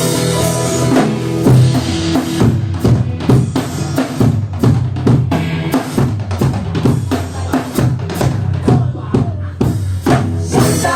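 A band playing an instrumental passage led by the drum kit: a busy rhythm of bass drum and snare hits over a steady bass line, with no singing.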